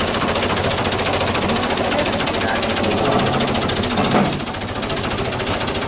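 1978 Fiat 640 tractor's four-cylinder diesel engine running with a steady, rapid clatter.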